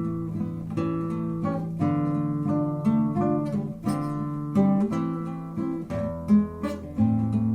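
Acoustic guitar playing the instrumental introduction to a song, plucked chords over held bass notes in a slow, even rhythm, with no voice.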